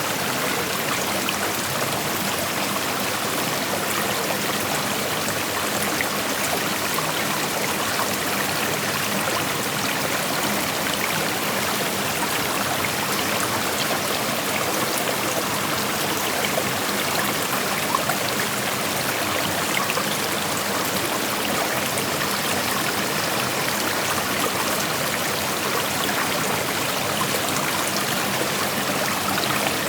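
Shallow creek water flowing steadily over rocks, a continuous rushing babble with small trickles and splashes.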